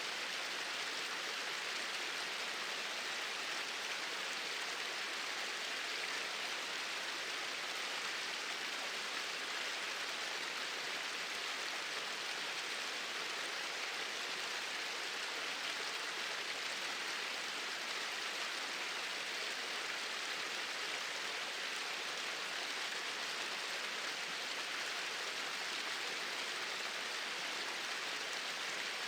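Small waterfall pouring steadily: an even, unbroken rush of falling water.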